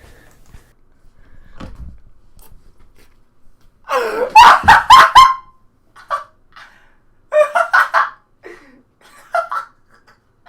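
A man laughing hard: a loud burst of rapid laughing pulses about four seconds in, followed by several shorter laughs and gasping breaths.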